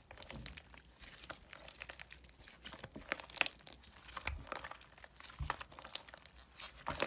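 Slime being squished and poked by hand, giving an irregular run of crackly clicks and small pops.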